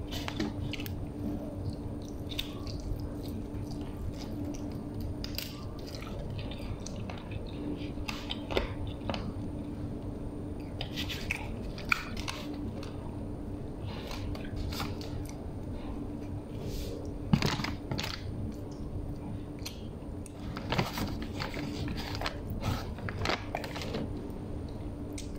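A person chewing and biting into food, with irregular crunches and smacks. A faint steady hum runs underneath.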